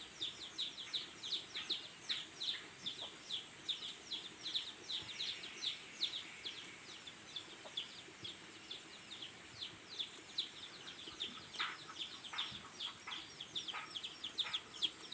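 Birds chirping: a busy run of short, high, falling chirps, several a second, that goes on without a break.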